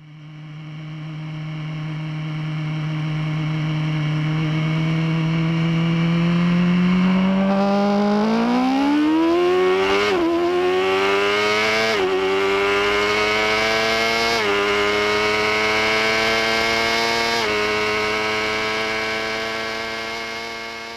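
Sport motorcycle engine running at a steady pitch, then accelerating hard through the gears: the pitch climbs and drops back four times as it shifts up. The sound fades in over the first few seconds and fades out near the end.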